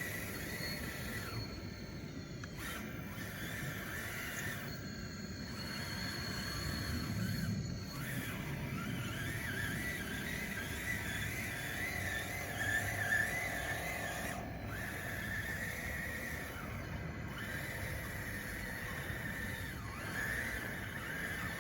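DXR2 RC bulldozer running, its electric drive whining with a wavering, squealing pitch.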